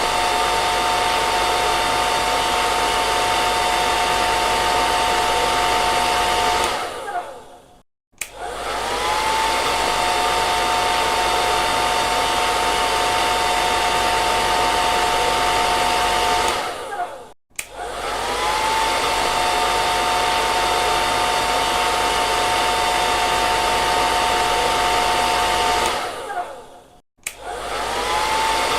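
Hair dryer blowing with a steady rush of air and a whine from its motor. About every nine seconds it cuts off and winds down into a brief silence, then starts again with a rising whine; this happens three times.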